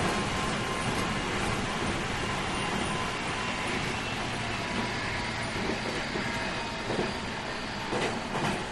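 Meitetsu Series 3100 electric train running, heard from inside the car: steady rolling noise with a faint whine from its Mitsubishi IGBT-VVVF traction equipment. A few wheel clacks over rail joints come near the end.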